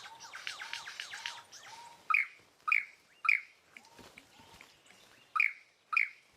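Superb lyrebird singing a simple song: about two seconds of a fast run of falling notes over a lower repeated note, then five loud, short, sharp calls, three close together and two more near the end.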